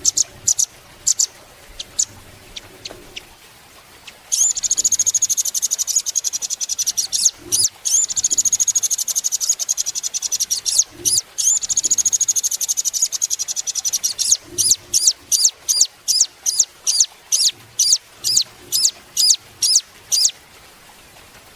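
Velvet-fronted nuthatch singing: a few sharp high notes, then from about four seconds in a long, very rapid high trill broken by a couple of short pauses, followed by a steady run of separate sharp notes at about two a second that stops shortly before the end.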